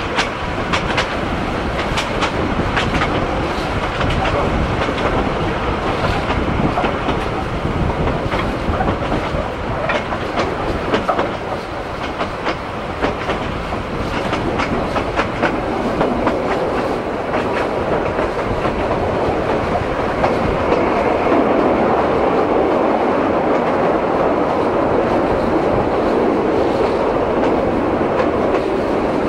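Narrow-gauge train running along the line, heard from on board: wheels clicking over rail joints over a steady rumble. The clicks are thickest in the first half; the rumble turns steadier and a little louder in the last third.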